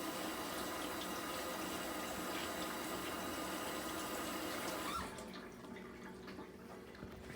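Water running steadily from a kitchen tap, shut off about five seconds in.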